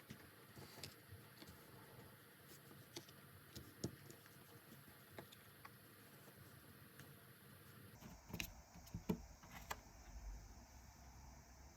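Tarot cards being handled on a table: faint scattered clicks and taps, with a few louder knocks and slaps of cards about eight to ten seconds in.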